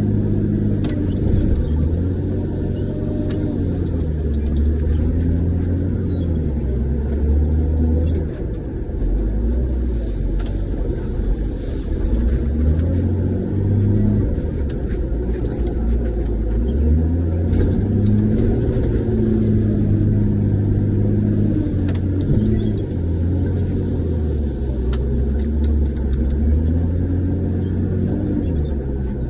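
Front-end loader's diesel engine heard from inside the cab, its speed rising and falling over and over as the machine works, with occasional light clicks and rattles.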